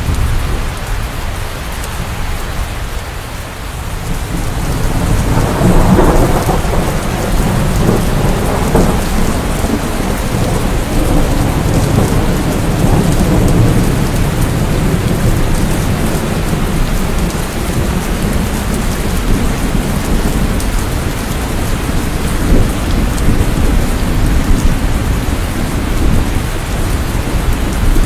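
Steady rain with rolling thunder rumbling under it, the rumble swelling about five seconds in.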